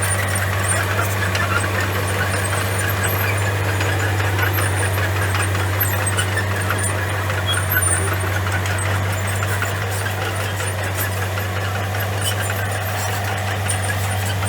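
Komatsu bulldozer's diesel engine running steadily at a constant speed, a deep even hum with rough mechanical noise over it.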